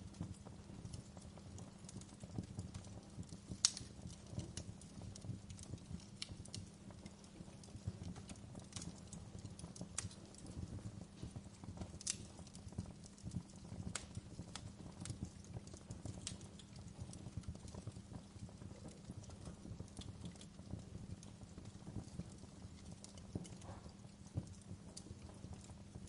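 Wood fire crackling, with irregular sharp pops over a steady low rumble; one pop a little under four seconds in is louder than the rest.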